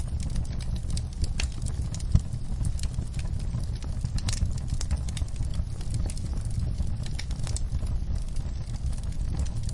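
Crackling fire: irregular sharp pops and snaps, one louder pop about two seconds in, over a steady low rumble.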